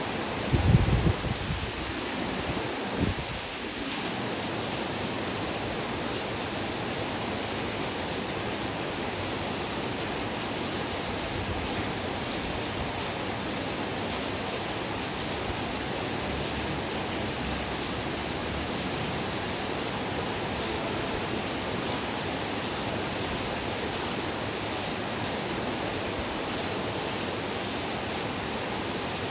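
Heavy rain falling steadily, an even hiss. A few brief low rumbles come in the first few seconds.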